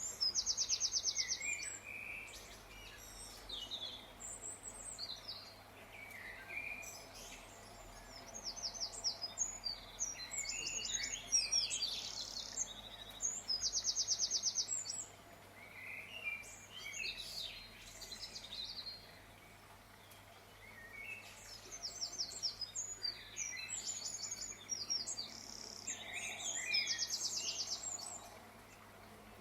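Songbirds singing and chirping, with fast trilled phrases of rapidly repeated high notes coming in bunches every several seconds and scattered chirps between.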